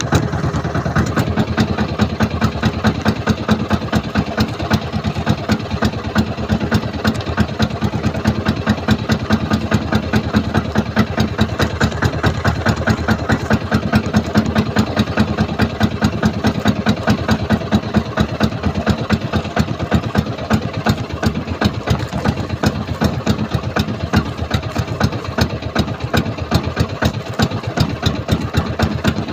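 A small fishing boat's engine running steadily with a rapid, even beat.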